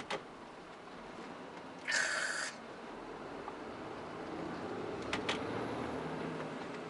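Cab interior of a Mitsubishi Fuso Super Great tractor unit with its 6R20 diesel running: a short hiss about two seconds in, then the engine note rising and getting louder as the truck pulls away.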